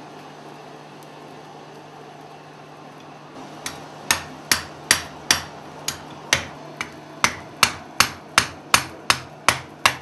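Blacksmith's hammer blows on an anvil: about sixteen sharp, evenly paced strikes, roughly two and a half a second, starting a few seconds in over a steady hum.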